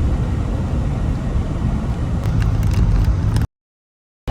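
Steady low rumble of a car on the road, cutting off abruptly about three and a half seconds in.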